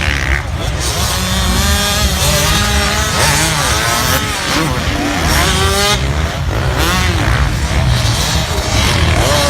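Several motocross bikes racing, their engines revving hard with the pitch rising and falling as they change speed and pass by.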